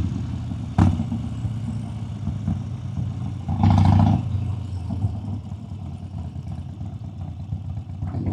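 Motorcycle engine running at low speed, with a sharp click just under a second in and a short, louder burst of engine noise about three and a half seconds in, then settling back down.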